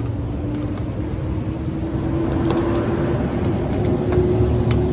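A motor vehicle's engine running close by with a low rumble, its hum rising slowly in pitch as it speeds up.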